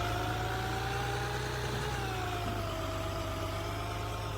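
Garbage truck engine running steadily at idle, with a whine that drifts slowly up and down in pitch.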